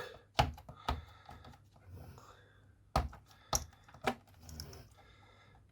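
Scattered sharp plastic clicks and knocks as the tube connections and water intake are worked off the pump inside a Nespresso Citiz coffee machine. There are a few clicks early, a quieter stretch, then three louder knocks close together around three to four seconds in.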